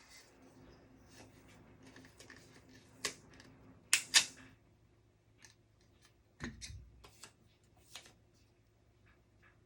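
Scattered small clicks and taps of objects handled on a desk, with two sharp clicks close together about four seconds in and a duller thump about two and a half seconds later.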